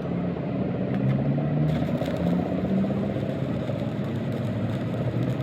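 An engine running steadily, its pitch wandering slightly; a hiss with light clatter joins it after about a second and a half.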